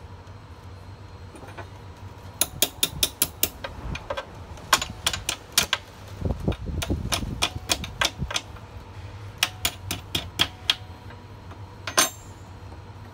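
Metal wrench clicking as it works a hydraulic hose fitting loose on a wheelchair lift: sharp clicks in several quick runs, a low rumble in the middle and one louder clack near the end.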